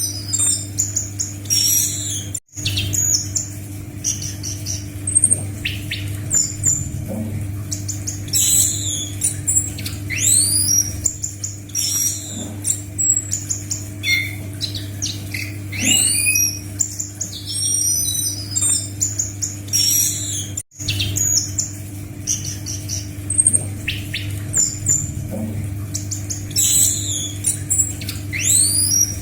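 Anis macan thrush singing a rapid, high-pitched medley of chirps and rising and falling whistles, played as a looped training recording over a steady low hum. The track cuts out briefly twice, about 18 seconds apart, as the loop restarts.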